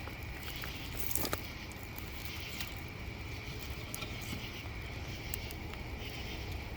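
Campfire crackling with scattered small pops, a cluster of them about a second in, over a steady high drone of insects.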